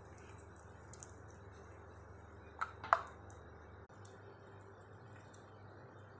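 A few sharp clicks or taps, the loudest a quick pair about three seconds in, over a low steady hum whose lowest part stops about two-thirds of the way through.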